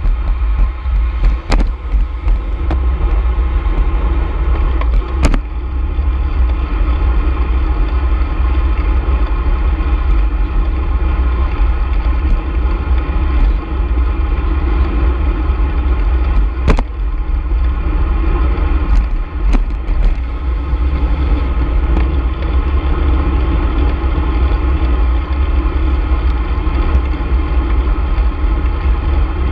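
Heavy wind buffeting on the microphone during a ride, over a steady mechanical hum from the moving vehicle, with a few sharp clicks scattered through.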